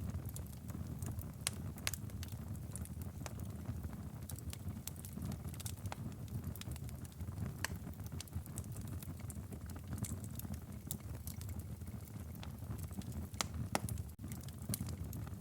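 Wood fire in a fireplace crackling: irregular sharp pops and snaps of burning firewood over a steady low rumble of the flames.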